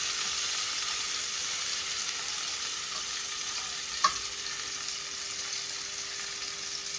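Food frying in hot oil in a pan, a steady sizzle, with one sharp clink of a utensil about four seconds in.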